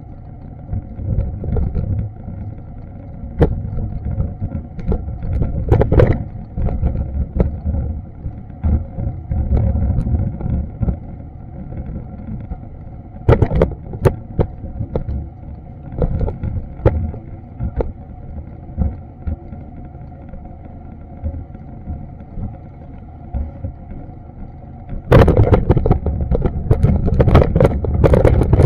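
City street noise: a low steady rumble of traffic with scattered sharp taps. It turns suddenly louder and harsher near the end.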